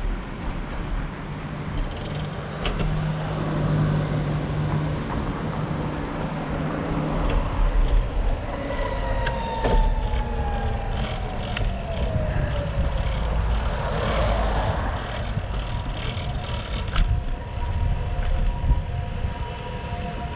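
Riding noise picked up by a camera clamped to a moving bicycle: a steady rumble of wind and tyres with scattered clicks and rattles. A tone falls slowly in pitch through the middle, and steady tones hold over the last few seconds.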